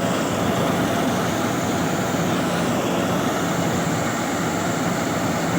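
Tractor-driven threshing machine running steadily while threshing sorghum, a loud, even mechanical noise with no distinct beat.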